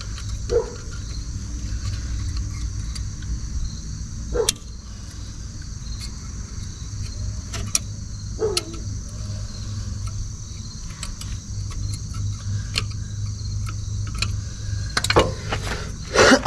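Scattered light metal clicks and taps as rear brake pad hardware clips and pads are worked into the caliper bracket, over the steady chirring of insects. A cluster of louder knocks comes near the end.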